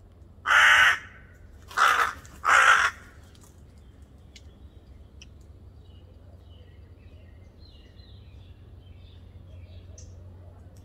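Three loud, harsh caws in quick succession from a bird, followed by faint, scattered chirping of small birds.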